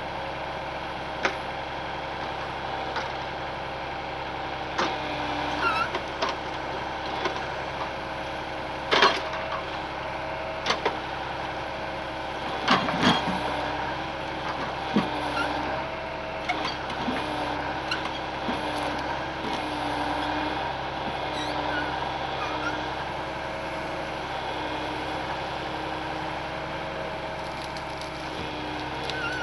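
Ural truck's engine running steadily, with frequent sharp knocks and rattles over it, the loudest about 9 and 13 seconds in, and a few small squeaks.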